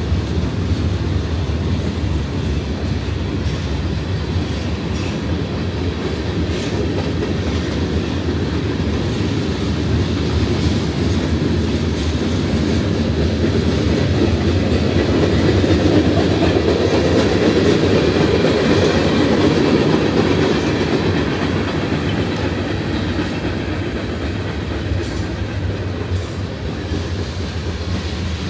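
Freight train of boxcars, tank cars and covered hoppers rolling past: a steady rumble of steel wheels on rail with scattered clicks, growing louder around the middle.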